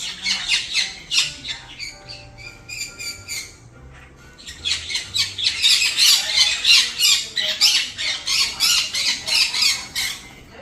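Two conure parrots squawking loudly in rapid, repeated shrill calls: a burst at the start, a short lull, then a longer, denser run of calling.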